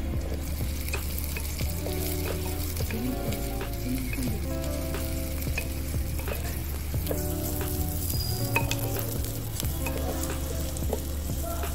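Chopped garlic and onion sizzling in hot oil in a clay pot, stirred with a wooden spatula that scrapes and clicks against the pot. Sustained background music notes run underneath.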